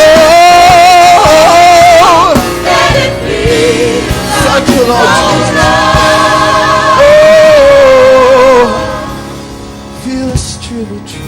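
Gospel choir singing with musical backing, holding long notes with a wavering, vibrato pitch. The singing drops away about nine seconds in.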